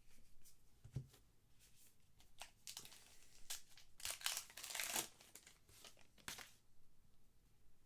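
Trading-card pack wrappers crinkling and tearing as packs are opened, in short rustles with the longest about four to five seconds in, and a light knock about a second in.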